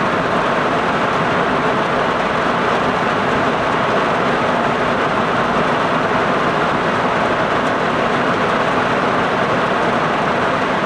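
Steady rain falling, a constant even hiss with no break.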